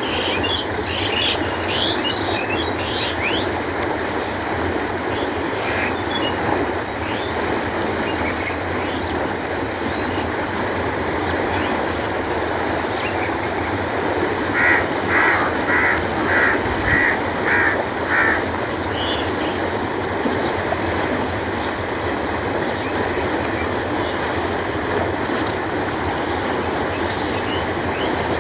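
Canal water flowing steadily with a constant rushing noise. Small birds chirp in the first few seconds, and about halfway through a bird calls about seven times in quick, even succession.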